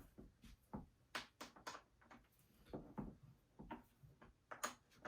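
Faint, scattered clicks and light metallic knocks of a chainsaw's bar nuts and side cover being fitted by hand, about a dozen small taps.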